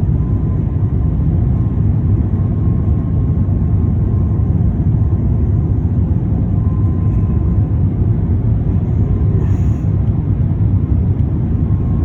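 Steady low rumble of an Airbus A350-900 airliner, with its Rolls-Royce Trent XWB engines and airflow, on the approach to a landing.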